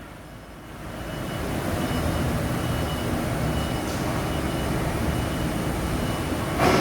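Engine running steadily with a low rumble, swelling in over the first two seconds, with a short louder burst of noise near the end.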